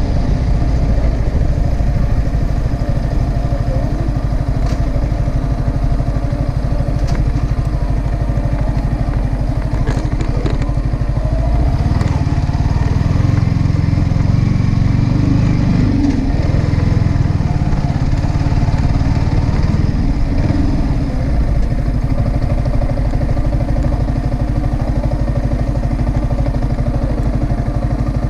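Yamaha R15M's single-cylinder engine running through its stock exhaust. Its low note swells louder for a few seconds about twelve seconds in, and a few light clicks come around ten seconds in.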